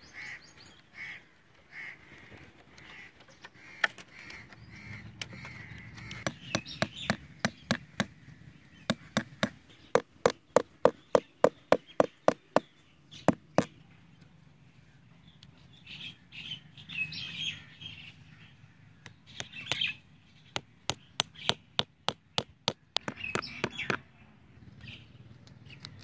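Birds calling, crows cawing among them. A quick run of sharp, evenly spaced taps, about three a second, comes in for several seconds in the middle and again near the end, louder than the birds.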